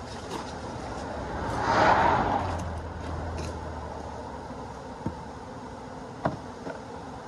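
A car passing by on the road, its tyre and engine noise swelling to a peak about two seconds in and fading away. Two short clicks follow near the end.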